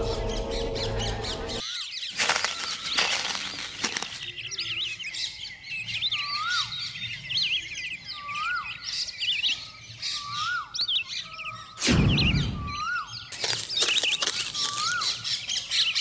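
Birds chirping, with one whistled call rising and falling about once a second and quicker high chirps around it. Brief loud noisy bursts break in a couple of seconds in and again about twelve seconds in.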